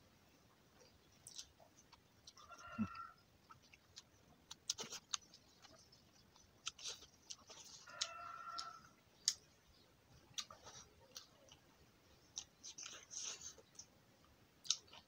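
Faint close-up eating sounds of a man eating rice and fish with his fingers: chewing, lip smacks and sharp little mouth clicks. Two short pitched calls stand out, about two and a half seconds in and again about eight seconds in.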